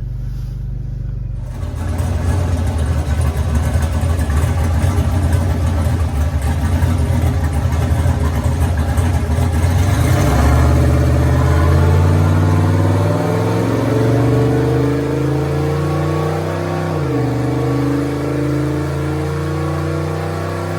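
A vehicle's engine running loud under load. From about halfway its pitch climbs steadily, drops sharply once as it shifts gear, then climbs again.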